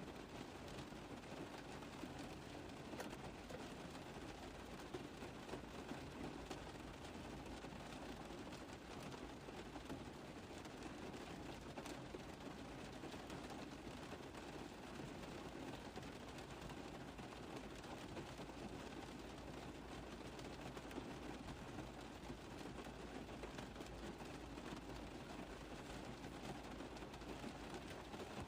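Steady rain falling on a car roof: a dense, even patter of drops.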